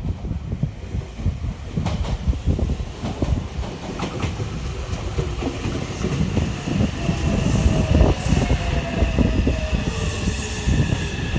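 Meitetsu 300 series electric train pulling into a station: a low rumble with wheels clicking over rail joints. From about five seconds in comes a slowly falling whine as it brakes, with steady high tones and short bursts of high hiss near the end as it slows.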